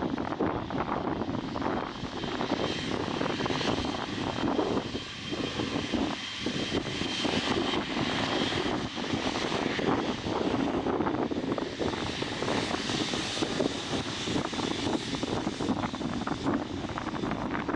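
Jet engine noise from a Boeing 777-300ER's two GE90 turbofans: a steady, wavering rush with a faint high whine.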